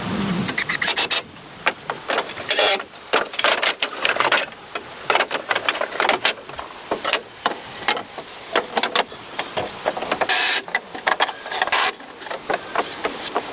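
Wood being worked with hand tools: a run of irregular scraping and knocking strokes.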